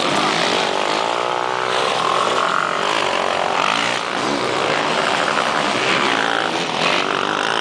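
Motocross motorcycle engine revving, its pitch rising and falling several times.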